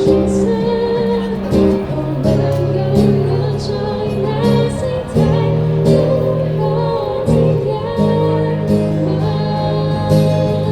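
Live band music: a song sung over instrumental backing with a steady beat.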